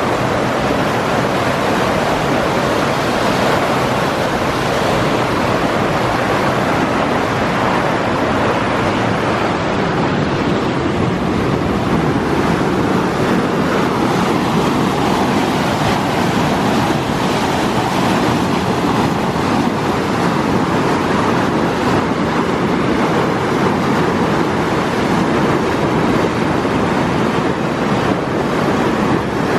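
Wind rushing over the microphone while riding a bicycle, a loud, steady rush of noise.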